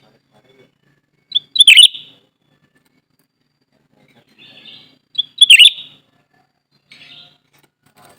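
Cucak ranting singing: two short, loud, bubbly phrases about four seconds apart, each opening with a brief lead note, with a few softer chattering calls in between.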